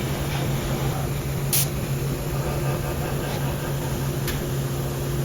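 Haas VF2 CNC vertical mill running a milling cycle: a steady low hum and hiss with a single sharp click about a second and a half in and a few fainter ticks.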